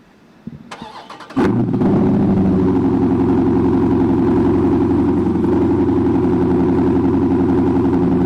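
Dodge Charger Scat Pack's 6.4-litre HEMI V8 starting through an exhaust with Vibrant 1142 resonators in place of the mid mufflers. The starter cranks for about a second, the engine catches about a second and a half in, and it settles into a loud, steady idle.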